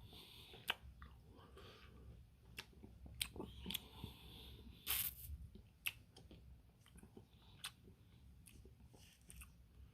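Close-up eating sounds from a hard-frozen Dairy Queen Smarties Blizzard: chewing and mouth smacks with scattered sharp clicks, the loudest burst about five seconds in.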